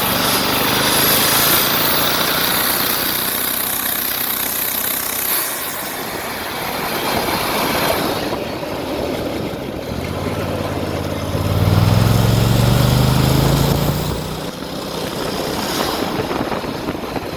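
Turbocharged Honda GX620 V-twin go kart engine running, its revs rising and falling, with a strong climb in revs between about 11 and 14 seconds in.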